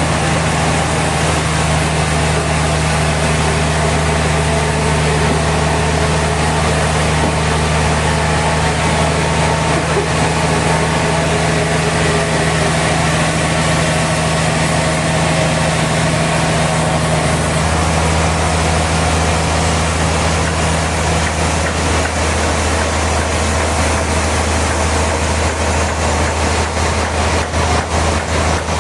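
Sawmill machinery running steadily with a deep engine hum. The low tone shifts slightly about two-thirds of the way through, and near the end a fast, regular pulsing comes in.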